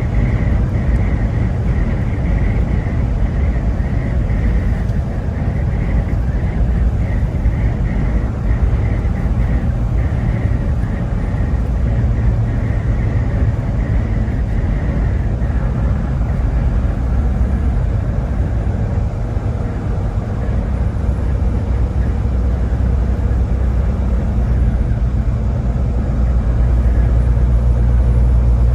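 Steady low rumble of a motor vehicle driving, engine and road noise without a break, growing a little louder near the end.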